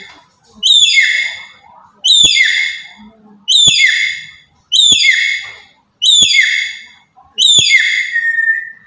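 Black-capped lory giving loud, shrill calls, six in a row about every second and a half, each starting suddenly and sliding in pitch; the last ends in a short held note.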